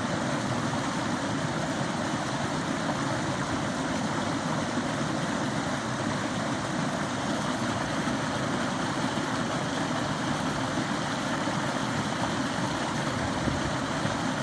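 Forest stream flowing steadily, an even rushing of water with no breaks.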